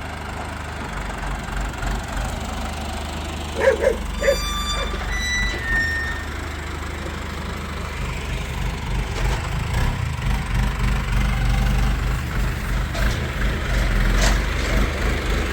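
Farm tractor engine running steadily, growing louder toward the end. About four seconds in there is a short call, followed by a few brief beeps.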